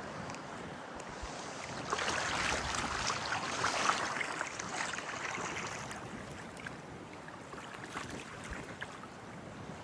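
Storm-driven water and wind: a steady rushing wash that swells into a louder surge of rushing water about two seconds in, then eases back over the next few seconds.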